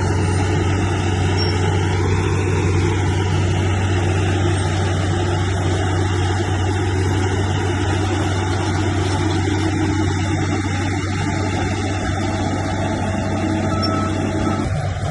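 Bulldozer's diesel engine running steadily under load, a deep even drone with no break.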